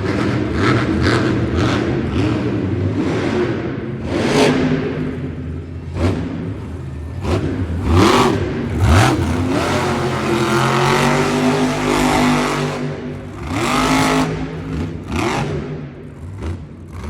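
A monster truck's supercharged V8 engine revs up and down hard through a freestyle run, with several sharp bangs mixed in.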